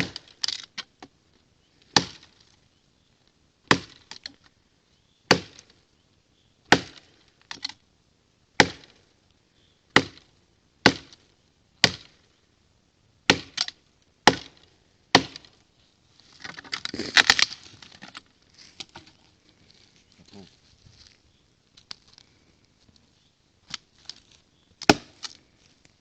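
Kukri chopping into a dry standing dead tree: about a dozen sharp strikes, one every second or so. Then a crackling stretch as the notched wood is broken, followed by a few scattered knocks and two more strikes near the end.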